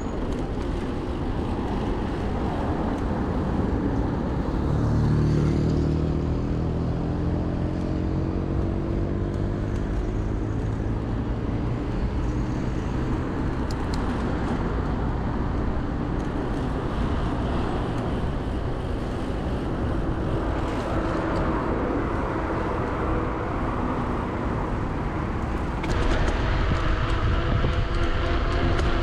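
Road traffic heard from a moving bicycle: a steady rush of wind and road noise, with a motor vehicle's engine rising in pitch as it pulls away about five seconds in, and a louder, steady engine hum starting suddenly near the end.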